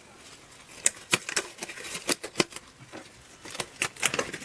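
Irregular sharp clicks and taps of small engine parts being handled as a two-stroke piston is fitted.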